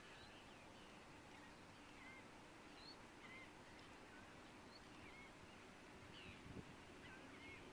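Faint, scattered short chirps and calls from a flock of birds over a steady hiss, with a soft low bump near the end.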